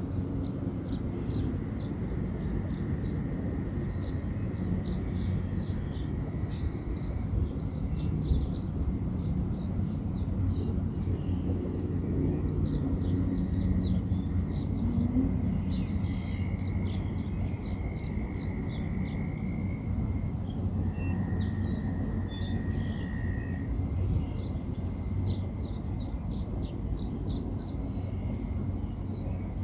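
Outdoor backyard ambience: a steady low rumble of wind on the microphone, with small birds chirping again and again, quick high chirps throughout.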